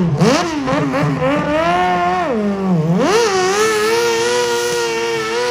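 Engine of a modified pulling garden tractor revving in quick blips, then held at high, steady revs from about three seconds in.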